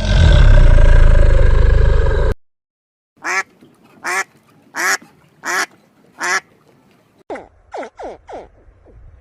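A loud, rough burst of noise for about two seconds that cuts off abruptly, then a duck quacking five times at an even pace. Near the end comes a quicker run of short calls that fall in pitch.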